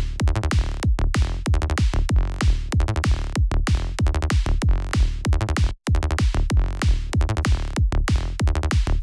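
Electronic kick drum from Kick 2 and a Sylenth synth bass playing a steady dance groove loop, with a very short gap about six seconds in where the loop restarts.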